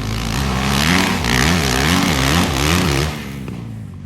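Dirt bike engine revving in quick throttle blips, its pitch rising and falling about four times, then easing off to a lower, quieter note about three seconds in.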